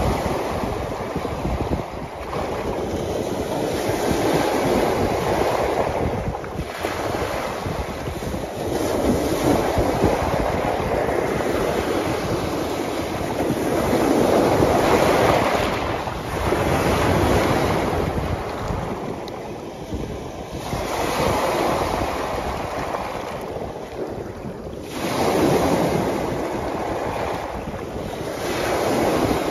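Lake waves breaking on a rocky shoreline and washing back out over the rocks, swelling and ebbing every few seconds, with wind noise on the microphone.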